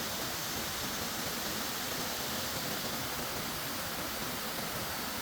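Steady rush of flowing water from a river or waterfall, an even hiss with no breaks.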